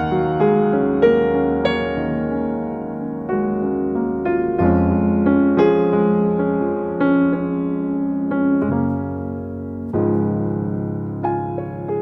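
Background piano music: slow, gentle notes and chords, changing chord about every few seconds.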